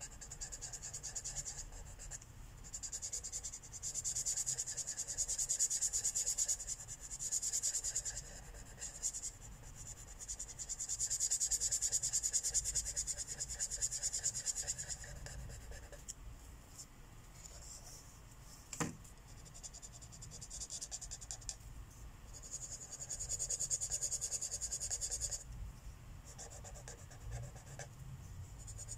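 Felt marker tip rubbing back and forth on coloring-book paper in several stretches of a few seconds each, a steady scratchy hiss with short pauses between them. A single sharp click comes about two-thirds of the way through.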